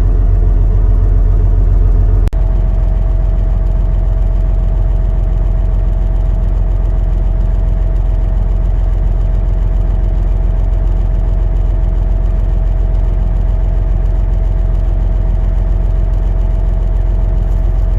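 Heavy diesel engine idling steadily, low and even, with a short click about two seconds in, after which a steady whine runs along with it.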